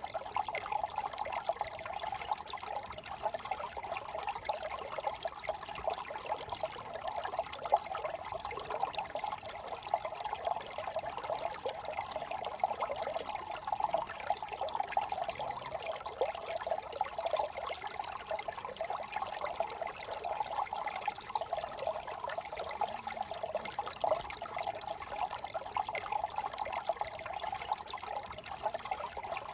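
Small brook trickling and gurgling over stones, a steady, even babble of running water.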